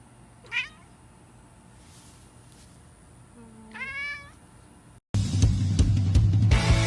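A kitten meows twice: a short high call, then a longer one a few seconds later. Music starts abruptly about five seconds in and is the loudest sound.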